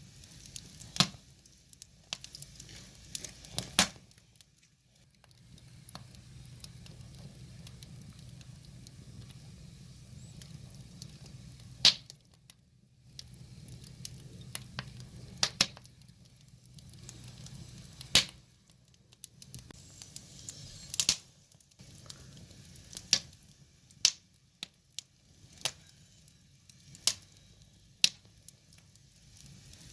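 Wood fire crackling: sharp, irregular pops every second or few seconds over a low, steady rumble of burning logs.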